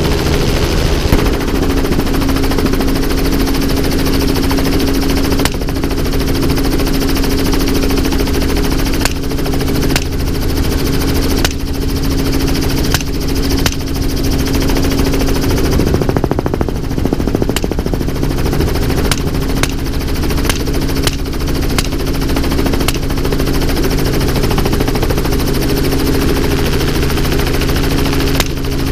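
Helicopter running steadily, with a series of gunshots firing over it, a dozen or so spread through, several in quick succession near the middle.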